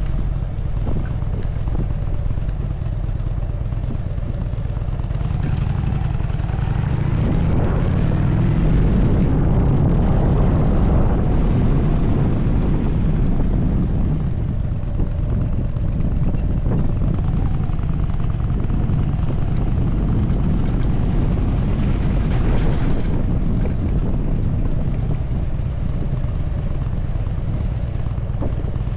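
Harley-Davidson Dyna Super Glide's air-cooled V-twin engine running steadily under way, with wind rushing over the microphone.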